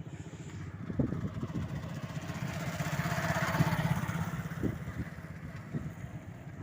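Motorcycle engine running as it passes close by, growing louder to a peak a little past the middle and then fading away.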